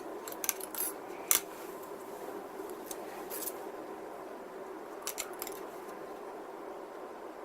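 Scattered light clicks and taps of small hobby tools and plastic being handled while scale-model panel lines are worked, a few in quick succession at the start and a few more later, over a steady low hum.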